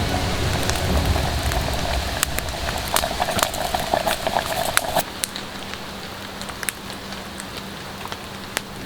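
Campfire burning in the rain: a steady hiss of rainfall with many sharp pops and crackles from the wet fire. The sound drops noticeably quieter about five seconds in.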